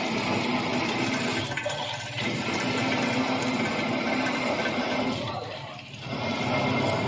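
CNC drilling and tapping machine cutting into steel plate: a steady machining noise that eases off briefly about two seconds in and again near six seconds.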